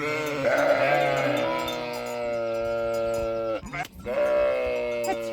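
Sheep bleating: one long, drawn-out call of about three and a half seconds, then a second call starting about four seconds in.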